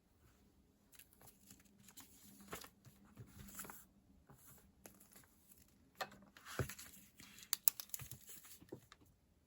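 Paper and sticker sheets rustling and crinkling under the hands, in short irregular bursts, with a few sharp clicks and taps near the end.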